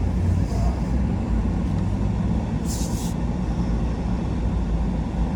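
A 4x4 truck running, heard from inside the cab as a steady low rumble, with a short hiss a little past halfway through.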